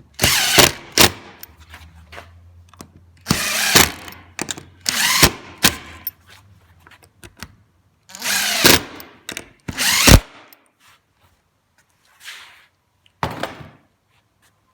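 Power drill driving Phillips screws to fasten cabinet hinge plates, in about seven short bursts with pauses between them.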